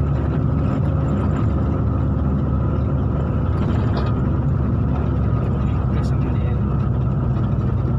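Steady drone of a motor vehicle's engine and road noise while driving.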